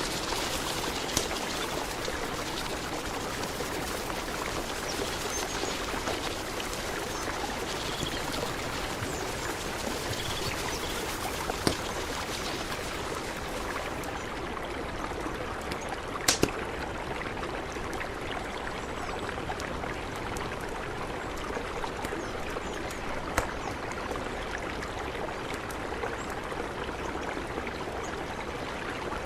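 Mountain river flowing steadily, a continuous rush of water, with a few brief sharp clicks standing out above it, the loudest about halfway through.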